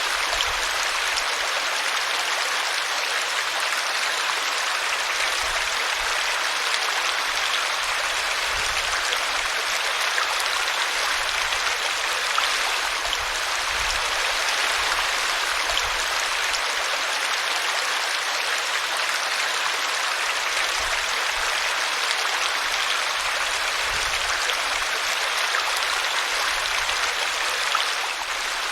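Small brook babbling steadily as its water spills over a tree root.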